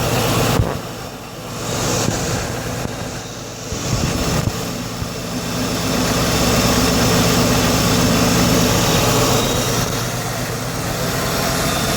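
2015 Ford Mustang GT's 5.0-litre V8 fitted with a ProCharger H.O. supercharger, running just after its first start-up and still warming up. Its level swells a few times in the first seconds, then it runs steadily.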